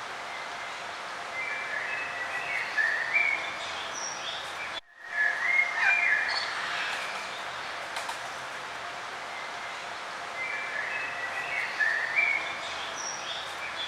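Songbirds singing in short, chirpy phrases over a steady outdoor background hiss, with a few seconds between bursts of song. The sound cuts out for a split second about five seconds in.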